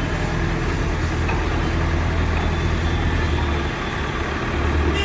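Heavy diesel engine running steadily at low revs, a deep even hum that eases briefly about four seconds in.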